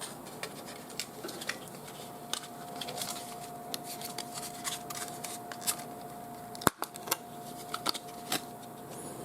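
Scattered light clicks and taps of small parts being handled while a CPU is fitted into its motherboard socket, with one sharper click about two-thirds of the way through. A faint steady whine runs under most of it.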